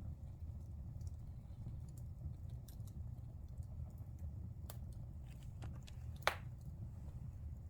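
Wood fire crackling in a fireplace: a steady low rumble with scattered sharp pops and clicks, the loudest pop a little past six seconds in.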